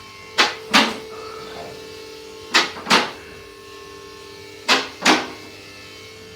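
A steady machine hum with a pair of short, sharp noisy bursts repeating about every two seconds, the two in each pair about a third of a second apart.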